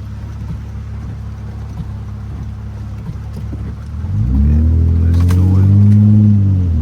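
Honda Accord V6 engine heard from inside the cabin: a steady low drone, then about four seconds in it revs up under acceleration, its pitch climbing and holding before falling away near the end.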